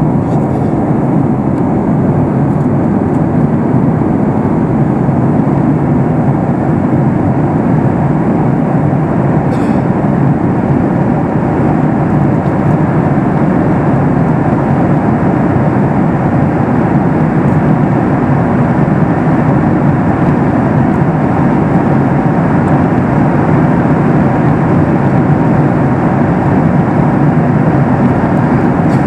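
Steady cabin noise inside a Boeing 737 MAX 8 in flight: a loud, even rush of airflow and CFM LEAP-1B engine noise.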